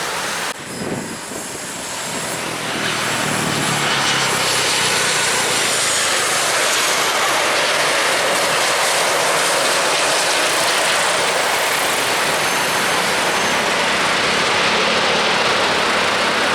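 Jet airliner's engines passing close: a loud, steady jet noise that builds over the first few seconds, with a high whine that falls in pitch as the aircraft goes by.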